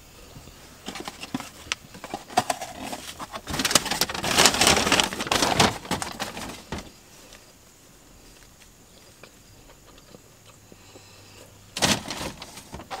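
Close-up eating sounds: a run of crackling and rustling that builds to its loudest in the middle, dies away, and comes back in a short burst near the end.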